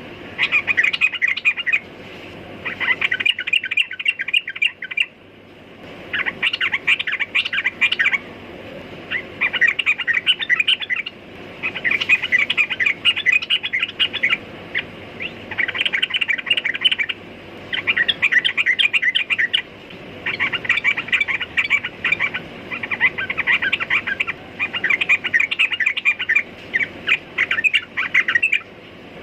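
Yellow-vented bulbul (trucukan) singing, with quick chirping phrases of a second or two each repeated about eleven times with short pauses between them.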